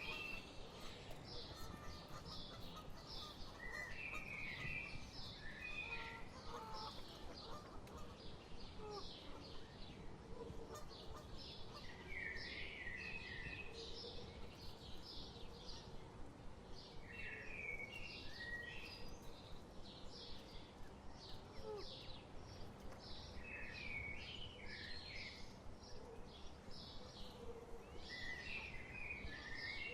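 Small birds singing, a short phrase of quick high notes with a lower chirpy figure, repeated about every five or six seconds over a steady low background rumble.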